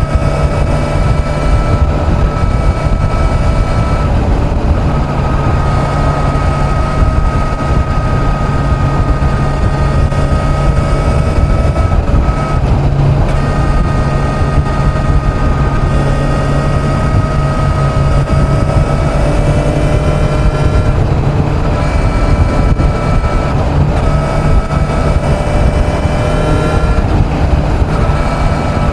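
Kawasaki Z900 inline-four motorcycle engine cruising at highway speed, a steady drone whose pitch drifts slightly with small throttle changes, under heavy wind rush on the microphone.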